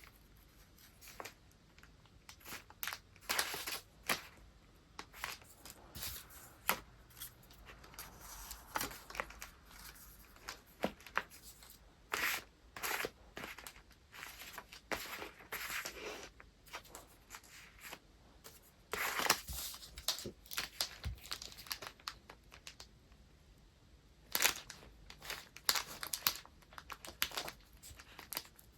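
Paper being handled for gift wrapping: irregular rustling and crinkling with sharp tearing sounds, in louder flurries a little before halfway, about two-thirds through and near the end.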